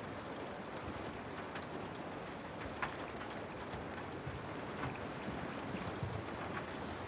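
Steady rain falling: a constant hiss with scattered individual drops ticking through it, one sharper drop a little before three seconds in.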